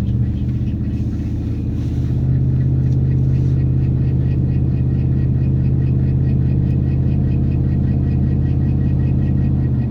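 2010 Dodge Ram's rear end making a steady low grinding drone, with a faint rhythmic pulsing above it. The grind started along with the ABS, traction control and service 4WD warning lights.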